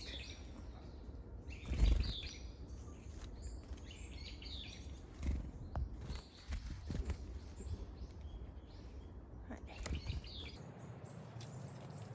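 Varied tits giving short, high chirping calls, with a few low thuds, the loudest about two seconds in.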